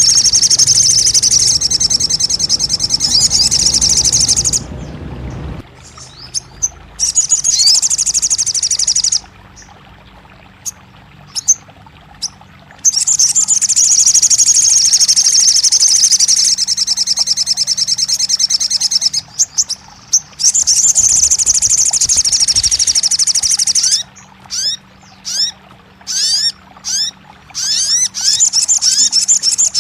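Sogon birdsong: long bouts of a fast, high trill broken by short pauses, then a quick series of short rising chirps near the end.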